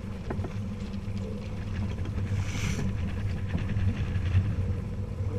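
A sailing yacht's inboard engine running steadily with a low hum, with a brief hiss about halfway through.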